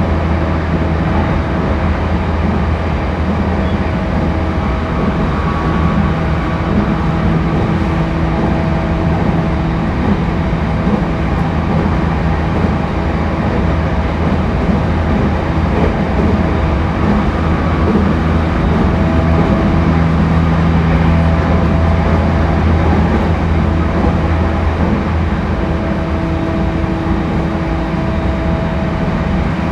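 Running sound heard inside a JR East E231 series 1000 (renewed) electric train car between stations: a steady rumble of wheels on rail with several steady hum tones over it, swelling slightly about two-thirds of the way through.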